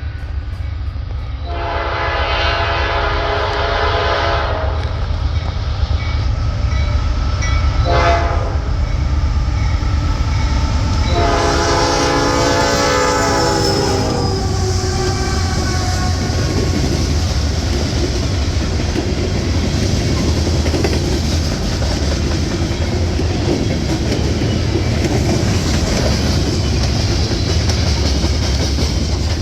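A diesel freight train led by a GE AC44C6M and an ET44AC sounds its horn in a long blast, a short blast and a long blast, with the locomotives' engines running under it. After that the train keeps passing with steady wheel-on-rail noise and a clickety-clack.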